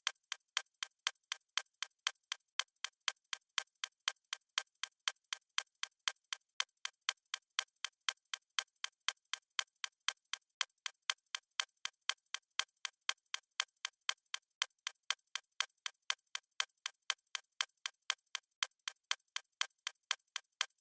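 Stopwatch ticking sound effect: light, even clock ticks at a fast pace, about four a second.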